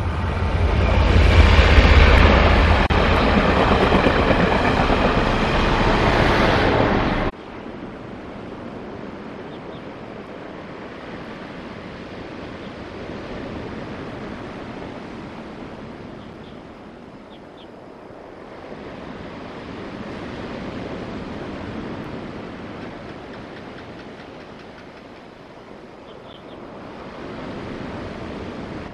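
A locomotive-hauled passenger train passing close by: a loud, heavy rumble of engine and wheels that cuts off abruptly about seven seconds in. Then surf washing on the shore, with wind, slowly swelling and easing for the rest.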